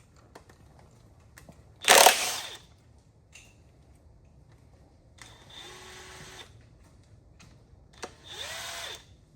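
A power tool zipping loose the connecting rod cap bolts of an LS1 V8: a loud short burst about two seconds in, then two quieter runs with a whining motor whose pitch bends, near the middle and near the end.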